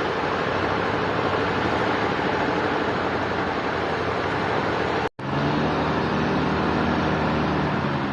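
Sawmill machinery running steadily with a dense mechanical noise and engine-like hum; the sound cuts out for an instant about five seconds in and comes back with a lower steady hum.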